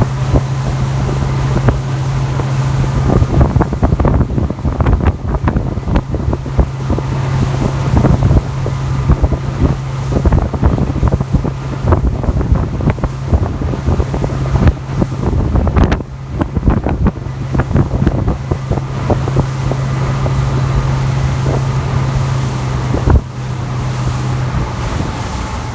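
Motorboat engine running at a steady drone, with heavy wind buffeting the microphone; the engine hum drops away shortly before the end.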